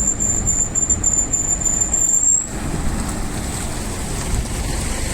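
Steady vehicle noise, low and even, with a thin high whine that stops about two and a half seconds in.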